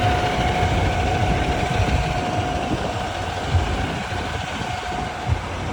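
City street traffic: vehicle engines running and idling as a steady low rumble, with a steady hum that fades out near the end.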